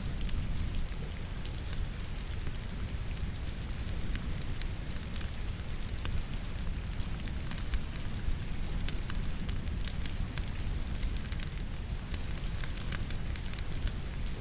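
Wood logs burning in a fireplace, crackling and popping with many small irregular snaps, layered over a steady hiss of falling rain.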